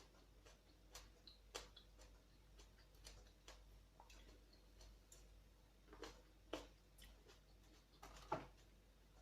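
Faint, irregular clicks and smacks of someone eating, with a few louder ones about six seconds in and again near the end.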